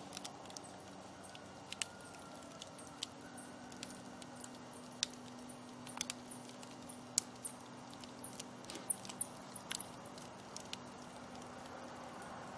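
Open wood fire crackling: irregular sharp pops and snaps, a few louder than the rest, over a low steady hiss with a faint steady hum underneath.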